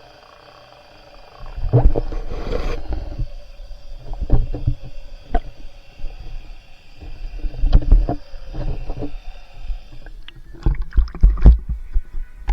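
Kayak paddling: irregular clusters of splashes and low knocks from paddle strokes and water against the boat, recurring every one to three seconds after a quieter first second and a half.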